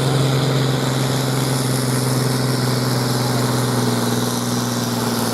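Tractor's diesel engine running steadily under a pulling run, a constant deep hum with no change in pitch.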